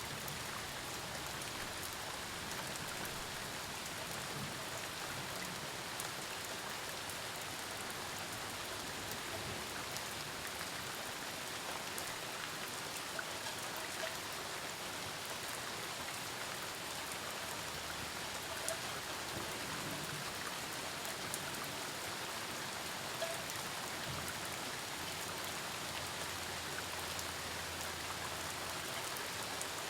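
Steady rain falling during a thunderstorm, an even hiss with scattered individual drops tapping on surfaces.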